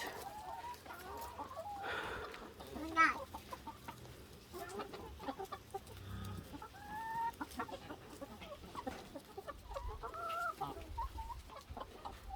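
A flock of free-range laying hens clucking, a mix of short scattered calls. One sharper call about three seconds in stands out as the loudest.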